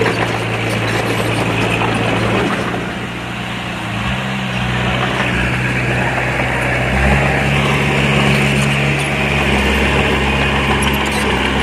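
Diesel engine of earthmoving machinery running steadily, its note shifting about four seconds in and growing heavier about seven seconds in.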